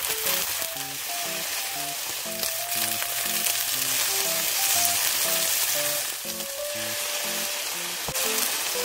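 Shrimp frying in oil in a cast-iron skillet: a steady sizzle.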